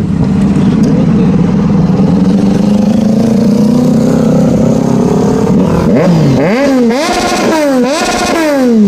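Superbike engine running steadily, its pitch creeping up. From about six seconds in it revs in four quick rises and falls, then its pitch slides down as it goes by.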